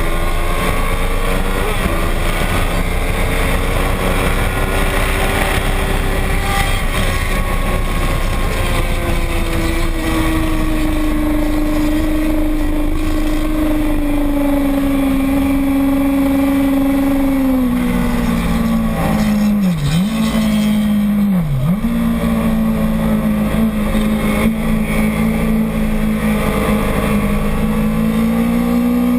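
Motorcycle engine running at high revs while lapping a race track. The pitch rises and falls slowly, with two quick sharp dips in revs a little past halfway.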